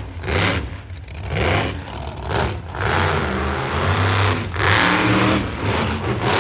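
Monster truck engine revving hard in short throttle bursts, then held at high revs for the last few seconds.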